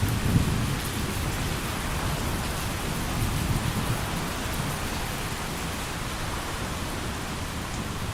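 Heavy rain pouring steadily in a thunderstorm, with a low rumble of thunder that is strongest at the start and slowly dies away.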